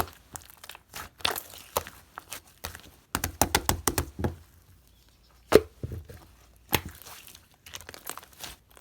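Green slime being squished and pressed by hand, making sticky crackling clicks and pops: a quick run of clicks a few seconds in, and one loud pop just past the middle.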